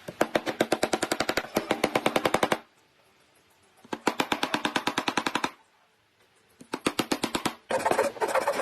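A woodworking tool making rapid, evenly spaced sharp clicks, about ten a second, in three runs: one of about two and a half seconds, a shorter one after a pause, and another starting near the end.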